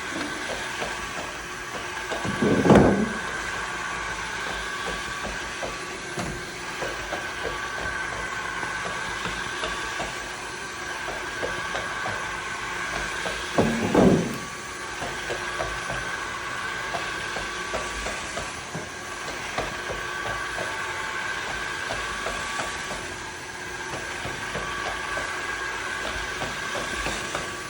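Osotek H200 Lite wet-dry vacuum mop running with a steady whine, going back and forth over a mess to suck up the last bits of vomit. Two louder surges stand out, about 3 seconds in and about 14 seconds in.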